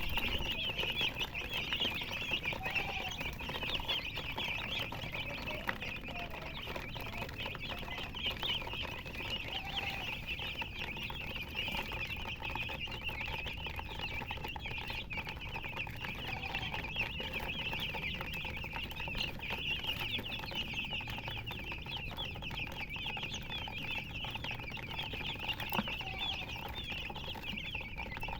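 Many baby chicks peeping together in a constant, dense chorus of short high chirps, with a few lower clucks from a hen now and then.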